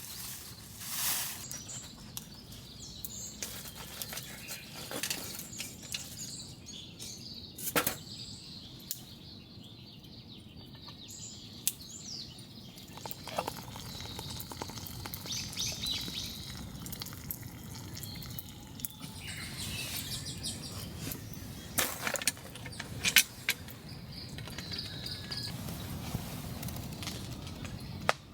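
Woodland ambience: birds chirping over a soft steady hiss, with occasional sharp snaps and clicks, the loudest two close together about 22 and 23 seconds in.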